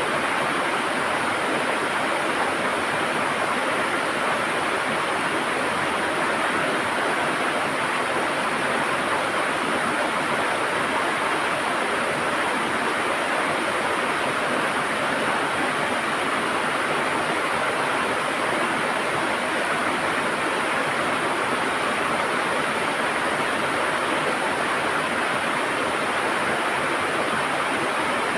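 River water gurgling and rushing, a steady even flow with no breaks.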